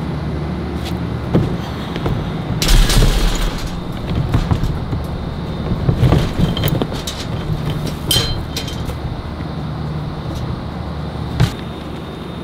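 A vehicle engine idling with a steady low hum, broken by several knocks and thuds. The loudest is a clatter about three seconds in.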